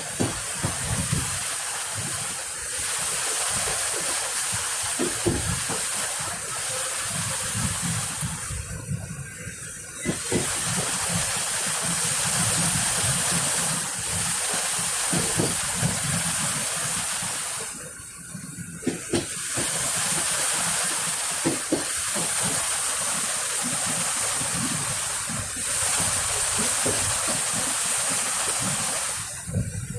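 Passenger train running at speed, heard from an open window: a steady rushing hiss with the clack and rumble of the wheels on the rails. The hiss drops away briefly three times, about nine or ten seconds apart.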